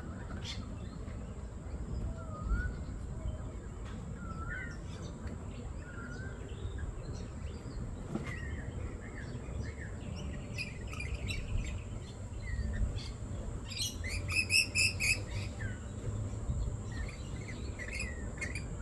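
Parrots chirping in short, scattered calls with small rising and falling glides. About fourteen seconds in comes a quick run of about six louder, harsher notes. A low steady rumble and a thin high steady tone run underneath.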